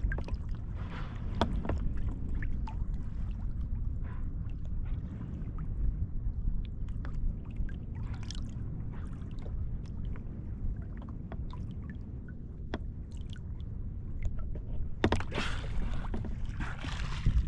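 Kayak being paddled on open sea: a steady low rumble of water and wind, with short paddle splashes and water slapping the hull. The water noise grows louder about fifteen seconds in.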